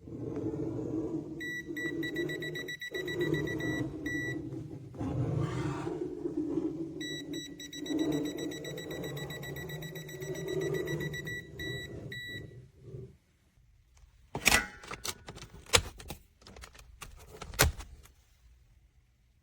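Electronic beeping from the clamp meter's buzzer in two stretches of a few seconds each, a high rapid pulsing tone over a low, uneven rushing and handling noise. A few sharp clicks follow near the end.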